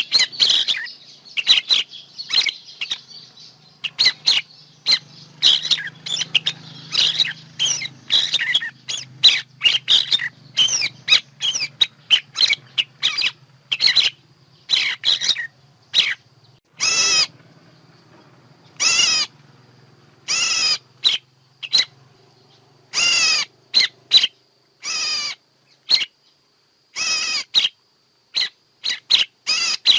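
Recorded songbird calls played as a bird-trapping lure: a rapid run of short chirps and trills, then from about halfway through, separate longer calls of about half a second, roughly every two seconds. A faint low hum sits beneath the middle part.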